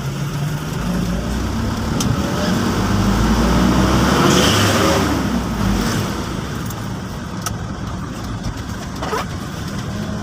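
Motor vehicle engine running steadily, with a vehicle passing close by about three to five seconds in: the sound swells and its engine note falls in pitch as it goes past.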